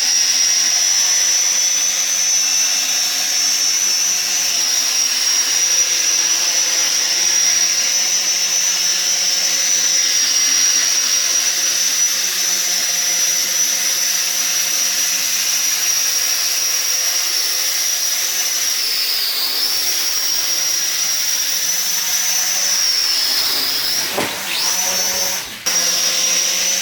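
Sky Viper v950 quadcopter's small electric motors and propellers whining steadily in a hover. The pitch sags briefly past the middle, then drops sharply and climbs back near the end.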